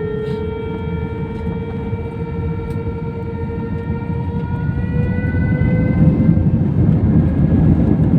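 Airbus A320 jet engines spooling up for the takeoff roll: a steady whine that climbs slowly in pitch over a low rumble that grows steadily louder.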